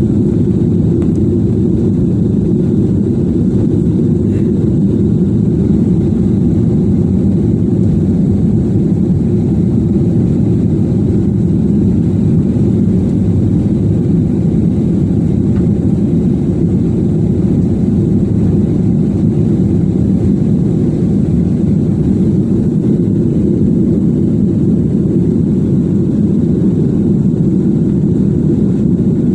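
SpiceJet airliner's engines and airflow during takeoff, a steady low rumble as heard inside the cabin.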